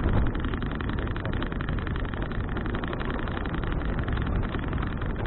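Steady rushing rumble of wind on an action camera's microphone while cycling.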